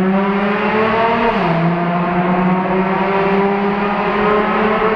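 2007 Nissan 350Z's 3.5-litre V6 with a cat-back exhaust and the muffler deleted, accelerating hard: the engine note climbs, drops with an upshift about a second and a half in, then climbs again. Loud, heard from inside the cabin while driving through a road tunnel.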